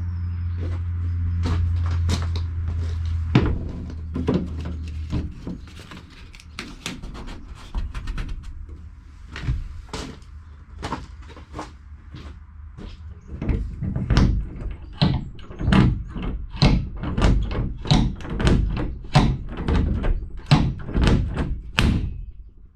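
A steady low hum for the first few seconds, with knocks over it, then a long run of knocks and thuds that settles into an even beat of about one and a half knocks a second in the second half.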